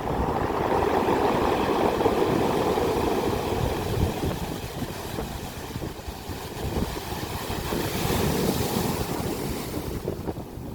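Sea waves breaking on the shore: a rushing surf that swells about a second in, eases off midway and surges again with more hiss around eight seconds.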